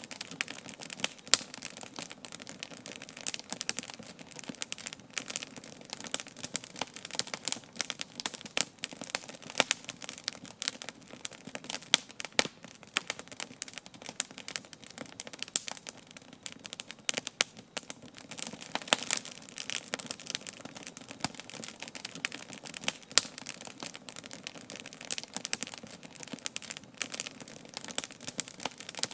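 Wood campfire burning, with steady crackling and irregular sharp pops over a low hiss.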